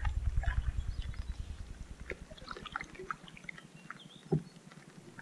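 Light rain on a canoe paddled along a river: scattered drops tick on the deck and the water. A low rumble fades out over the first few seconds, and there is one dull knock about four seconds in.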